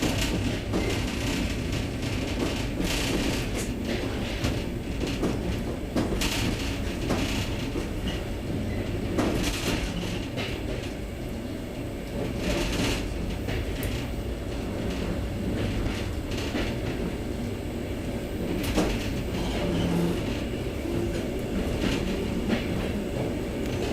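Trans-Siberian Railway passenger train running, heard from inside the carriage: a steady low rumble with sharp clicks and knocks at irregular intervals.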